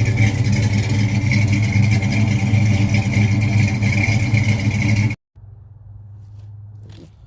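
An engine running steadily at one speed, which cuts off abruptly about five seconds in. A much quieter background with a few faint clicks follows.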